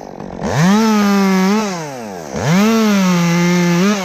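Two-stroke chainsaw revved to full throttle twice, each burst holding about a second before dropping back to idle, as it cuts limbs off a sugar maple.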